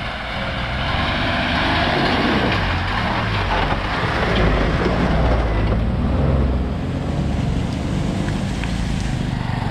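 Motor vehicle engine running close by, with a low rumble under a broad noisy wash. It grows louder about a second in and eases off a little after about six seconds.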